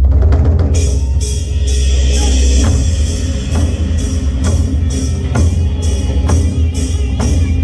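Korean traditional drums playing a steady, driving beat of about two strokes a second over a heavy low rumble, with a brighter, fuller layer joining under a second in.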